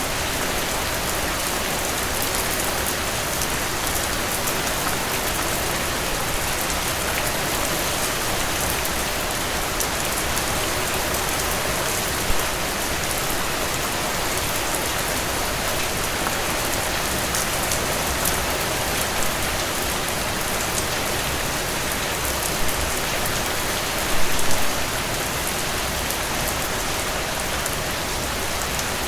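Heavy rain pouring down in a steady, dense downpour, with a couple of brief louder spots: one about twelve seconds in and a short cluster about four-fifths of the way through.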